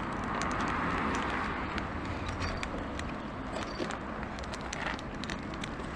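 Steady outdoor background noise, like distant road traffic, with scattered small clicks and scuffs.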